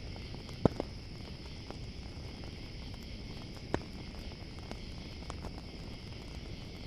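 Campfire crackling, with a couple of sharp pops (just under a second in and near four seconds in) and fainter ticks, over steady cricket chirping.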